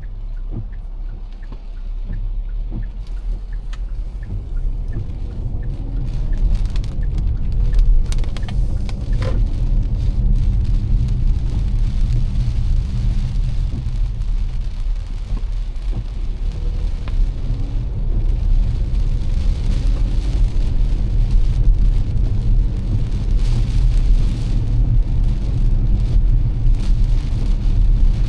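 A car driving in heavy rain, heard from inside: a steady low engine and road rumble under the hiss of rain and wet tyres, which grows louder over the first few seconds.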